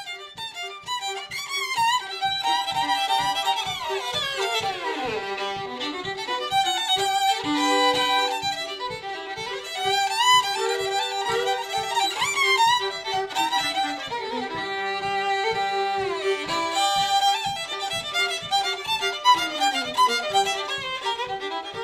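Fiddle playing a tune with sliding notes over a steady, even rhythmic pulse of about three strokes a second.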